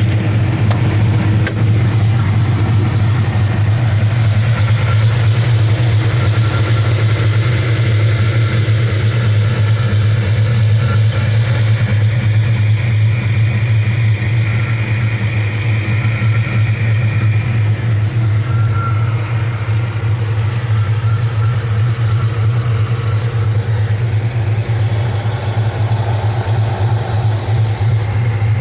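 Chevy Avalanche's V8 idling steadily with a performance camshaft, freshly tuned.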